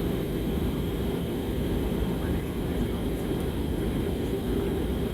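Steady low rumble of a passenger jet heard from inside the cabin during landing: engine and airflow noise with a faint high whine above it.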